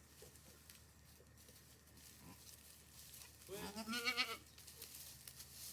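A goat bleats once, a wavering, quavering call about a second long, a little past halfway.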